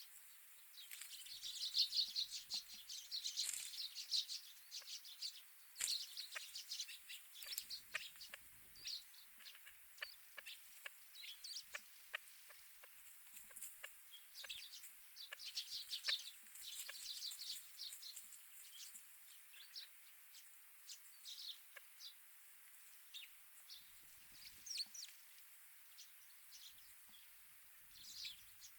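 Grey partridges and small winter birds calling: many short, high chirps and chattering calls, busiest in two bursts near the start and around the middle.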